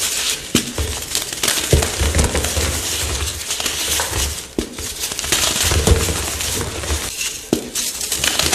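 Chalk blocks being crushed and crumbled, a dense crunching with many sharp cracks and some dull low thuds.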